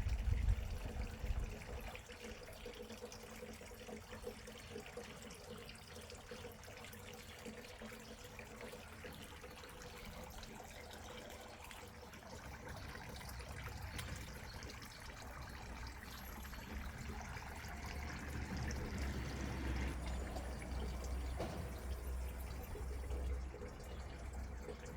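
Water running steadily, an even hiss that grows somewhat louder in the second half.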